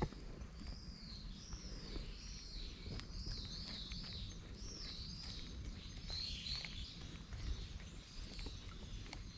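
A bird singing a run of short high notes, each rising then falling in pitch, repeated in quick irregular groups with short gaps, over a low steady rumble.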